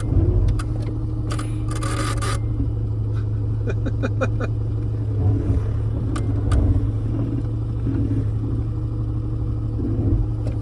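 Rapid clicking and buzzing from behind the dashboard of a 1995 Jeep Cherokee XJ, coming and going in bursts over the steady hum of the running vehicle. It sounds almost like electrical arcing and is the sign of a bad relay chattering on and off.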